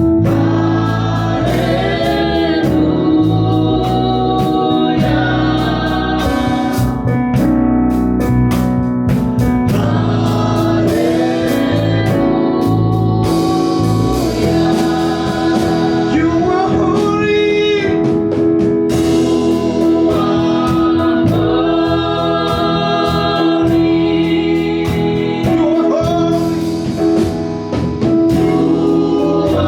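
Gospel praise-and-worship music: singing over held organ-style keyboard chords, with sharp percussion hits throughout.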